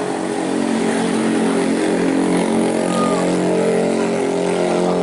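Heavy truck's diesel engine running steadily under load on a steep climb, a constant engine note with strong overtones.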